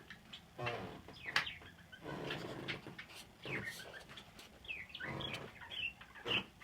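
Pet budgerigars and doves calling, with many short chirps and warbling chatter and a few lower calls mixed in, several birds overlapping.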